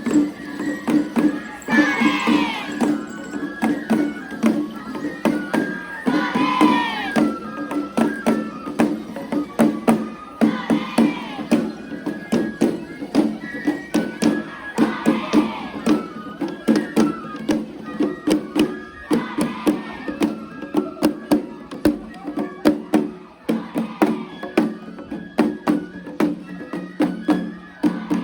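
Traditional Japanese festival music: a steady droning chord with a stepped melody above it over fast, continuous percussion strikes, and calls rising and falling about every four seconds.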